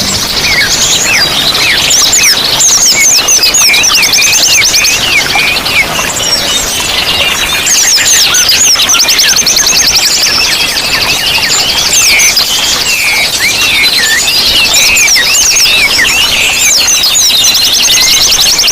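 Many small songbirds calling at once, a dense chorus of fast chattering trills, chirps and quick sweeping whistles, over a steady hiss of running water.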